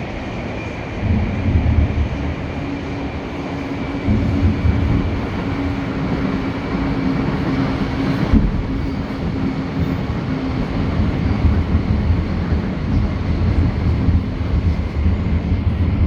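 A steady low mechanical rumble with a held hum and a faint high whistle over it, like a passing vehicle or engine. No firework bangs are heard.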